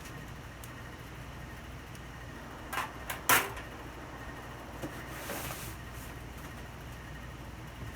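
Packaging and fan parts being handled during unboxing: a few knocks about three seconds in, the loudest among them, then a single smaller knock and a short papery rustle, over a steady low hum.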